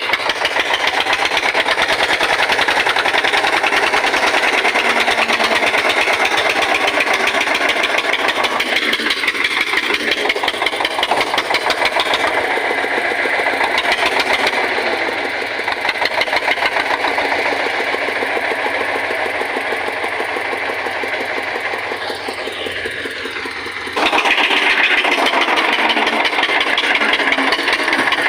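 Eicher tractor's diesel engine running hard with a fast, even knocking beat, as it struggles to pull an overloaded trailer. The sound steps up suddenly in loudness near the end.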